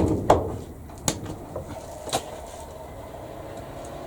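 A few sharp clicks and knocks of objects being handled on a workbench, the loudest right at the start, then a steady low hum from a small electric heater running.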